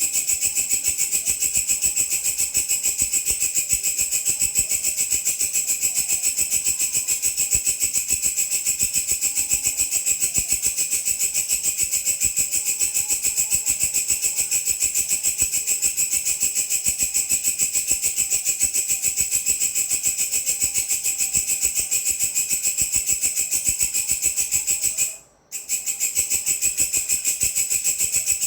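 A grasshopper (belalang) stridulating: a continuous high, rapidly pulsing buzz that breaks off for a moment about 25 seconds in and then starts again.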